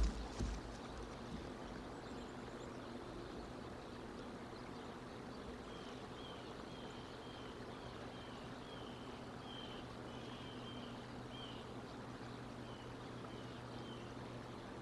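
Bald eagle's wingbeats as it takes off from the nest, heard as a brief loud flurry right at the start. Then a steady low hum, with a small bird calling a short, high, falling note about twice a second from about six seconds in until near the end.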